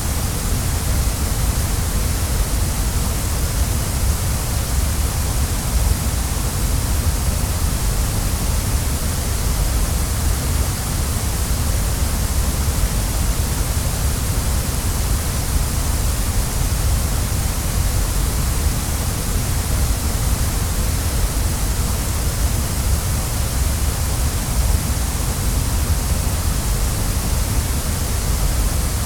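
Waterfall: a steady, unbroken rush of falling water, with a deep rumble underneath and a high hiss on top.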